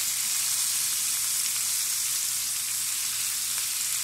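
Sliced bell peppers and onion sizzling steadily in hot oil in a nonstick frying pan.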